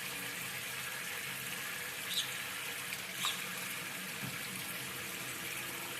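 Shower water running steadily, spraying down, with two short sharp sounds about two and three seconds in.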